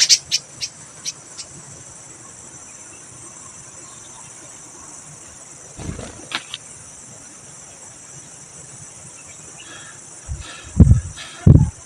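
Steady high-pitched drone of a cricket chorus. A few short ticks come just after the start, a brief rustle about six seconds in, and two loud low thumps near the end.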